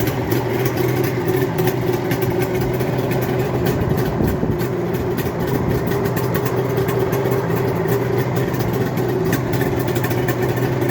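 Custom 1977 Suzuki GT750's two-stroke three-cylinder engine idling steadily through its aftermarket exhaust, with the choke off.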